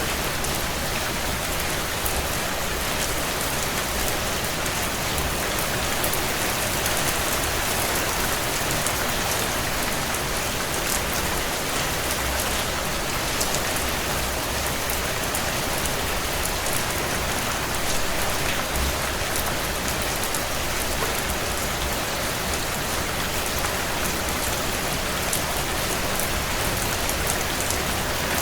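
Heavy rain on a tin roof: a steady, dense hiss of rain peppered with many sharp drop impacts.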